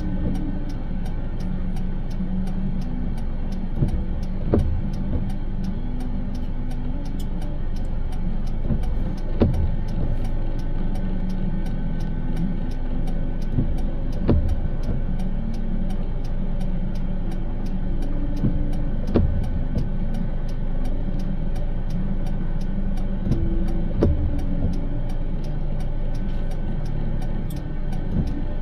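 Steady road and engine rumble inside a moving car's cabin, with a sharp knock about every five seconds.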